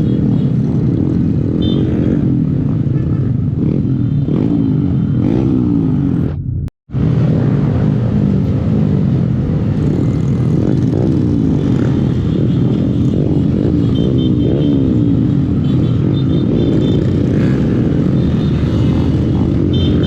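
Honda 125 cc single-cylinder motorcycle engine running while riding, its pitch rising and falling with the throttle. The sound cuts out completely for a moment about seven seconds in.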